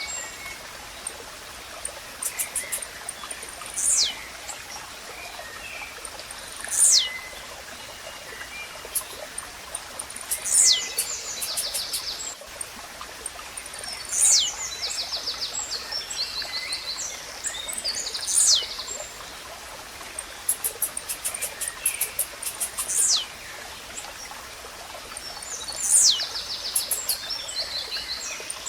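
Blue-black grassquit (tiziu) singing: a short, sharp falling note, repeated every three to four seconds, each with a quick buzzy, clicking flourish. Underneath runs a steady hiss of running water.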